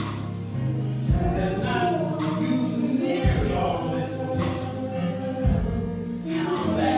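Gospel choir singing with band accompaniment, a low drum hit landing about every two seconds.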